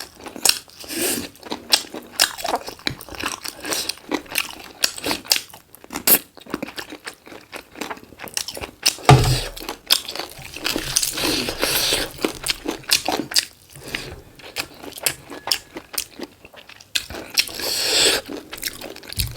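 Close-up chewing and crunching of black chicken, biting into the meat and its bone, in irregular wet crunches and mouth clicks that grow denser and louder about halfway through and again near the end.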